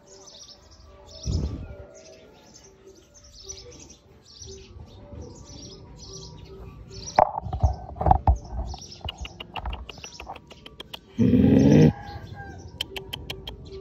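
Small birds chirping over and over in the background, with a few knocks and runs of sharp clicks from close handling. About eleven seconds in comes one loud, brief rumble close to the microphone, the loudest sound here.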